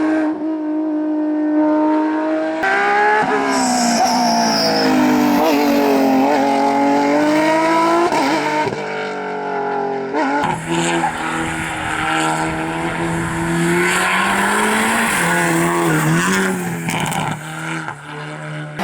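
Rally cars at full attack on a tarmac stage, engines revving hard and dropping back between gear changes and corners, with abrupt switches between different cars about a third of the way in and again past halfway. A brief tyre squeal about four seconds in.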